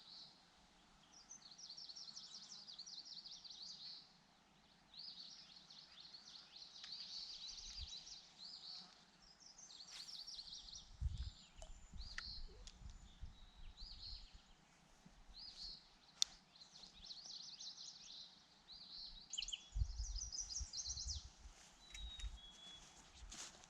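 Songbirds singing outdoors: repeated high, fast trilling phrases, with thin short whistled notes near the end. A few low rumbles come about halfway through and again near the end.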